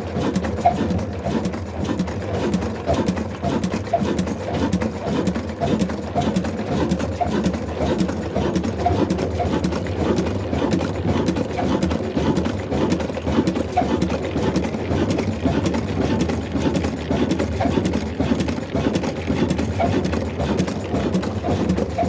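Old single-cylinder black desi diesel engine running at a steady speed, with an even, rhythmic beat.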